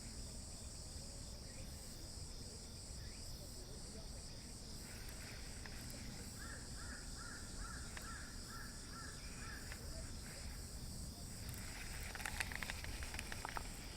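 Outdoor ambience of a steady, high-pitched insect chorus, with a bird calling a quick series of about eight short repeated notes in the middle.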